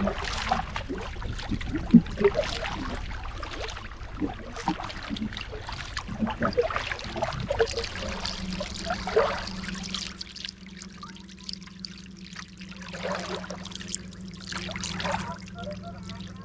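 Paddle strokes in the water, with water splashing and trickling off the blade. A steady low hum starts about halfway through.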